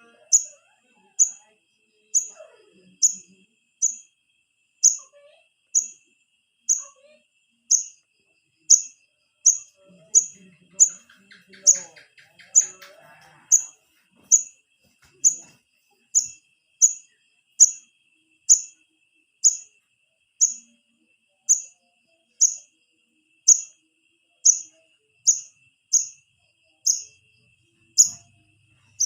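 A juvenile wiceh (korlap) bird calling for its parents: one short, high chirp repeated at an even pace, a little more than once a second. This is the fledgling call used as a lure to draw in adult birds.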